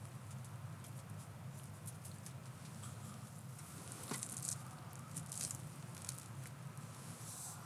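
Wood campfire crackling faintly, with scattered small pops and a light patter that thickens a little partway through.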